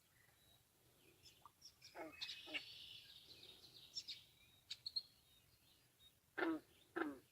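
Wild birds chirping and singing, with several calls that slide steeply down in pitch; the two loudest come near the end, about half a second apart.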